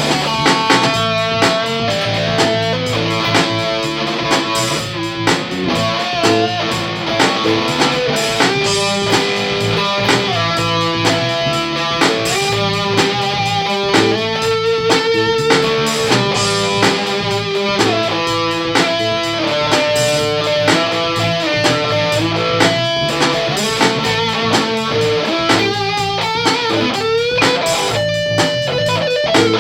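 Jazzmaster electric guitar played through a range booster, a Mooer Cruncher distortion pedal, a Sovtek 50 valve amp and an Egnater cabinet. It plays a mix of held single notes and struck chords.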